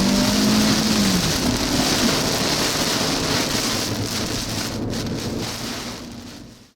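Heavy rain falling on a vehicle during a thunderstorm, a steady hiss that fades out to silence near the end.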